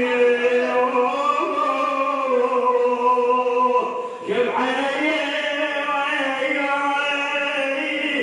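A male munshid's voice sings a Shia religious elegy (nasheed) in long, held, gently wavering notes, with a short break for breath about four seconds in.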